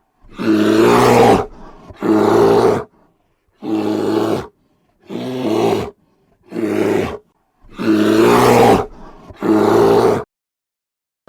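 An animal giving a series of seven loud, rough calls, each about a second long with short gaps between them.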